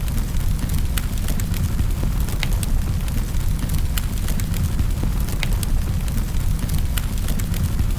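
Wood fire crackling in a fireplace: frequent small crackles with a louder snap every second or so, over a steady low rumble.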